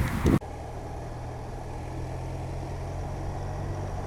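Motorcycle engine running at a steady pace while riding, a low even hum with a faint hiss of air. Speech breaks off abruptly a fraction of a second in, where the sound cuts to the ride.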